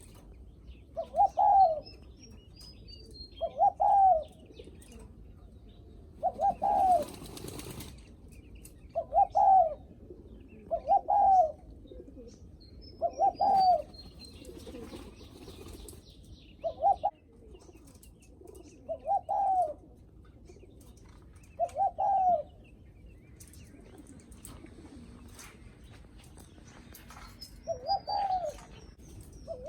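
Spotted dove giving its greeting coo: short, low coos repeated about every two to three seconds, with small birds chirping faintly in the background.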